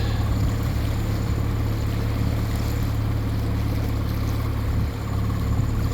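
Dinghy's outboard motor running steadily under way, a low even hum with water and wind noise, dipping briefly about five seconds in.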